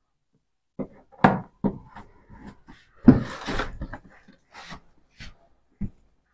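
A cardboard box being opened by hand: several short knocks and thumps of the box and its flaps, with a longer rustle of packaging about three seconds in.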